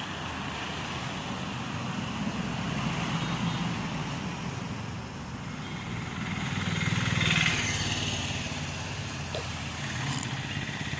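Steady low engine rumble from a motor vehicle, swelling to its loudest about seven seconds in.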